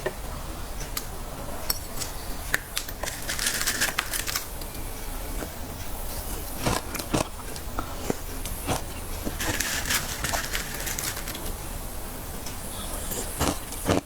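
Frost being scraped from the inside wall of a freezer: two crisp, hissing scrapes of about a second each, with scattered clicks and taps between.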